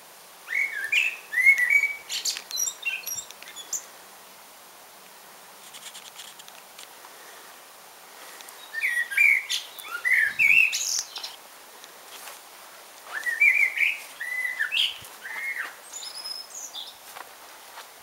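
A songbird singing three separate phrases of quick chirping notes: one near the start, one about halfway through, and one after about thirteen seconds.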